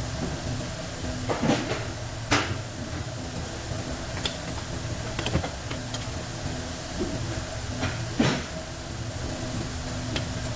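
Scattered metallic clicks and knocks of tools and parts being handled in dynamo repair work, about five sharp ones spread over several seconds, over a steady low machine hum.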